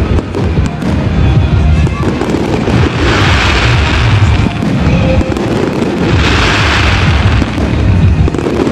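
Aerial fireworks shells bursting in a continual run of booms, with two spells of dense crackling about three and six seconds in.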